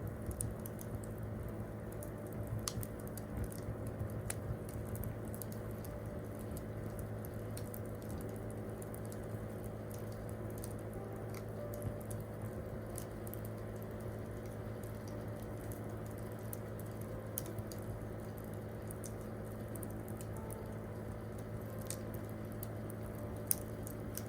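Wood campfire crackling with scattered sharp pops, one louder pop near the end, over a steady low hum.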